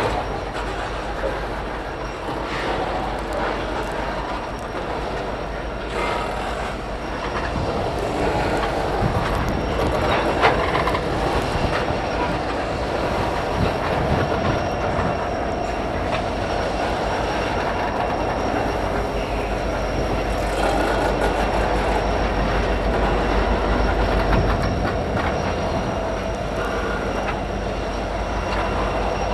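Diesel-hauled freight train backing slowly through a rail yard: steel wheels clicking over rail joints and squealing, with a few sharp knocks as the slack between the car couplers runs in and out.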